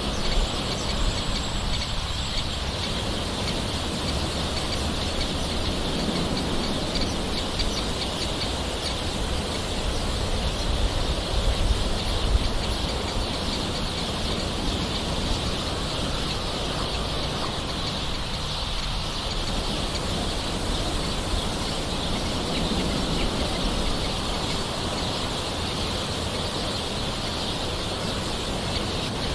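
Soft, steady rain with birds calling over it, under a constant high hiss. A brief thin, high whistle about a second in.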